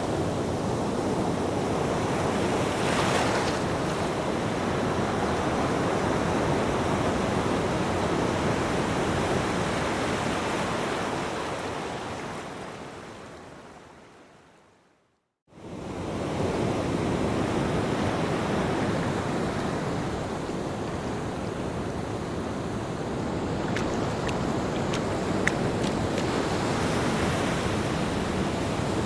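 Ocean surf washing steadily onto a beach. About halfway through it fades away to a brief silence, then comes back suddenly and swells up again. A few faint clicks sound near the end.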